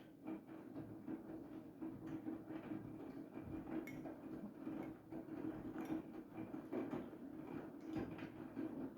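Siemens iQ700 front-loading washing machine in its main wash, the drum turning with a steady motor hum while the laundry tumbles with many small clicks and knocks.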